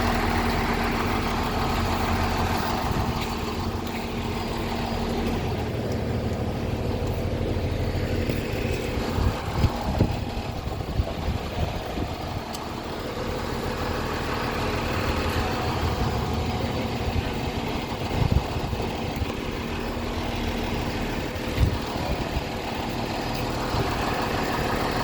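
Fire truck's engine idling steadily, with a few sharp knocks now and then.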